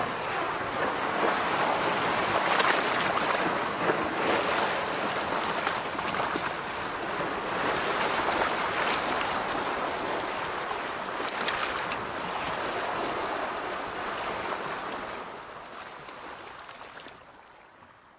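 Ocean surf washing onto a beach, a steady rush that swells and eases every few seconds, then fades out near the end.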